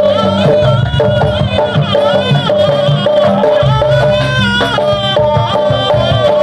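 Jaranan music played live: a dense drum rhythm under a repeated pitched note and a wavering, bending melody line.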